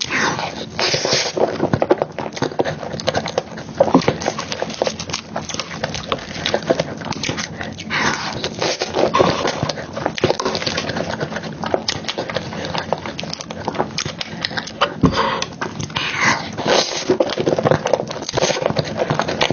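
Wet chewing and smacking of soft chocolate cake and cream, with many rapid mouth clicks throughout.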